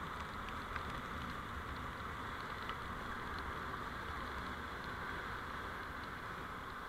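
Steady road and running noise of a vehicle on the move, picked up by a dash camera: an even hiss with a low rumble beneath and a few faint ticks.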